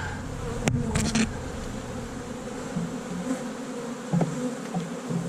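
A honey bee colony buzzing steadily around an open, crowded hive, with a few sharp clicks about a second in and short low knocks near the end.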